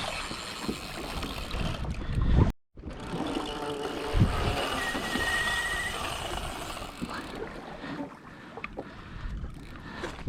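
Wind and water noise around a fishing kayak at sea, with a short, wavering high whine about five seconds in. The sound cuts out completely for a moment about two and a half seconds in.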